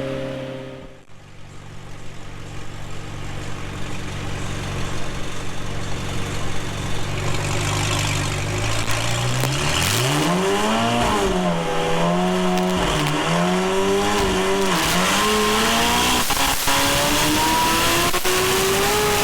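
McLaren 720S twin-turbo V8 running: it revs up and down from about ten seconds in, then climbs steadily in pitch near the end as a pull under load begins, likely a dyno run.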